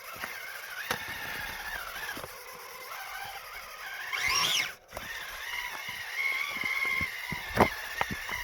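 RC rock crawler's electric motor and drivetrain whining at crawling speed. It surges up in pitch once about four seconds in, then settles back, with a few sharp knocks near the end as the rig bumps over rocks.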